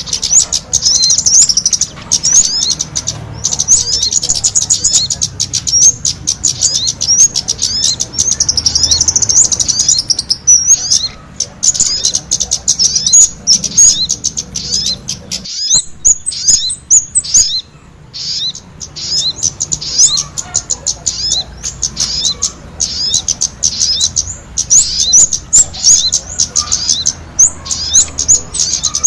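Dense, rapid high-pitched chirping and twittering of small birds: a bird-lure track of sogon calls mixed with kemade calls. There is a brief break about halfway through.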